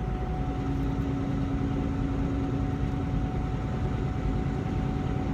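Semi-truck tractor driving, heard from inside the cab: a steady engine drone and road rumble with a constant hum.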